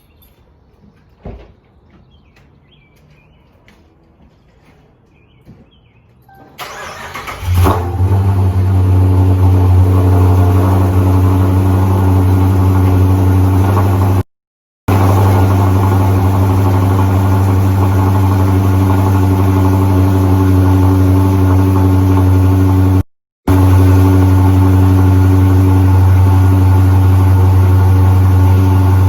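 Dodge Challenger R/T's 5.7-litre Hemi V8 cranking and catching on a cold start about seven seconds in, then running at a steady, loud idle. The sound cuts out completely twice, briefly.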